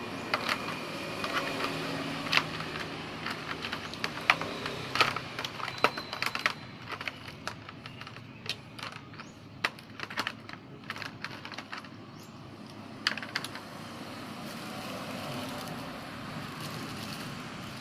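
Irregular sharp clicks and taps of small hard objects being handled, several a second in the first half, then sparser, with a short cluster near the two-thirds mark, over a steady background noise.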